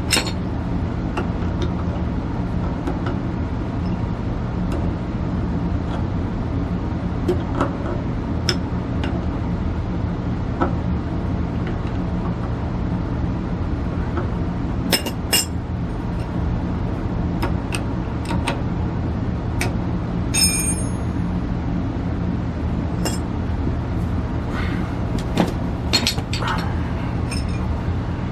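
Scattered metallic clicks and clinks of tools and parts being handled, one of them ringing briefly about twenty seconds in, over a steady low machine hum.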